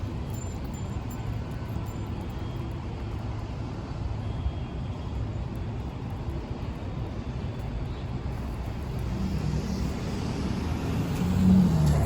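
City street ambience with a steady low traffic rumble; a motor vehicle's engine grows louder over the last few seconds as it comes close.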